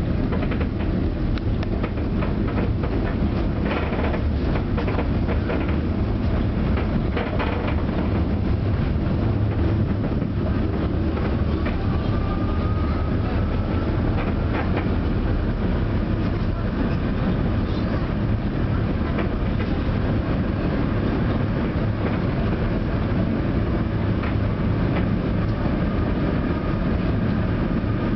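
Tram running along the track, heard from inside the car: a steady low rumble of wheels on rails, with clicks over rail joints in the first several seconds and a faint rising motor whine partway through.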